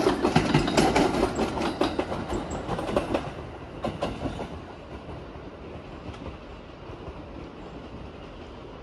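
JR East 209-2100 series electric commuter train passing close by, its wheels clicking over rail joints in a quick, regular rhythm. About three seconds in the sound drops to a quieter, steady rumble of a train further off.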